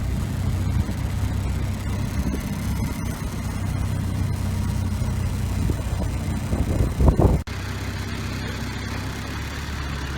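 Boat motor running steadily with a low hum. About seven seconds in there is a brief louder rumble, then the sound cuts abruptly to a similar, slightly different hum.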